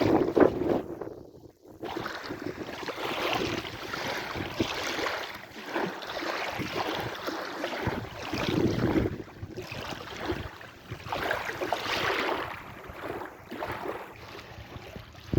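Sea waves washing and splashing, swelling and fading every few seconds, with wind noise on the microphone.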